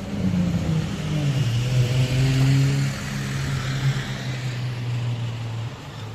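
Nissan 350Z's VQ35 V6 engine pulling away: it revs up about a second in, holds a steady note, then fades near the end as the car drives off.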